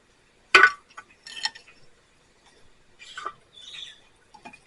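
A sharp knock about half a second in, then scattered lighter clinks and scrapes: hard gear being handled and set down.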